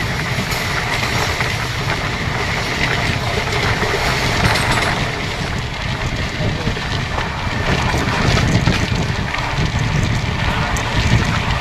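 Amrit Bharat Express passenger train running along the track: a steady rolling noise of wheels on rails, with small clicks and rattles.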